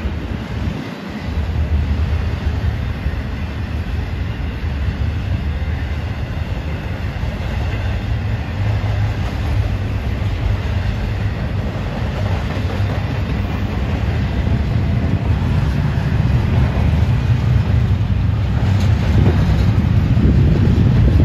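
Double-stack intermodal well cars rolling past close by: a steady rumble of steel wheels on rail.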